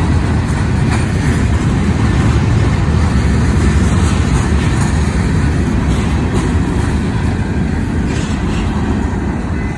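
Freight train of covered hopper cars passing close by: a steady, loud noise of steel wheels on the rails, heaviest in the low end, with a few faint clicks.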